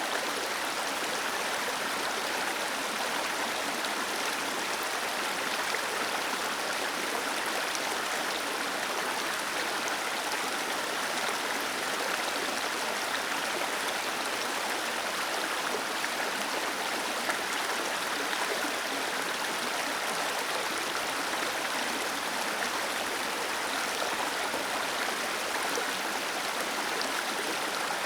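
Small waterfall cascading: a steady, even rush of falling water, mostly hiss with little deep rumble.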